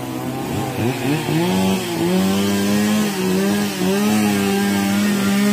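Small petrol engine revving up in the first second and a half, then held at a steady high speed with slight wavering.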